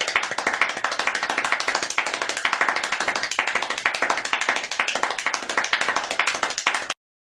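Applause sound effect: many hands clapping in a dense, even patter that cuts off sharply near the end.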